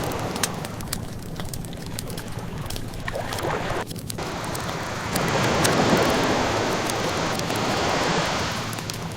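Ocean waves washing in steadily, swelling a little about halfway through, mixed with the scattered crackles and pops of a wood fire.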